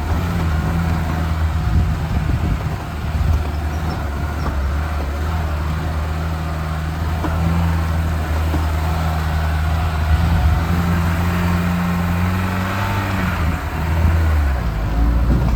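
Lada Niva engine running steadily as the car is driven on an off-road track. Its pitch rises a little, then drops about thirteen seconds in.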